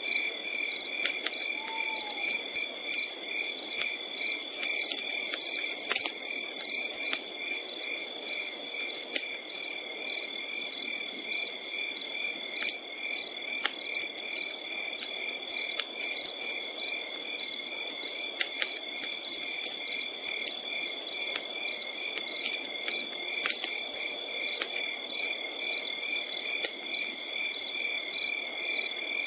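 Crickets chirping steadily: one continuous high trill with regular pulsed chirps about twice a second. Sparse sharp pops and clicks from a crackling campfire run through it.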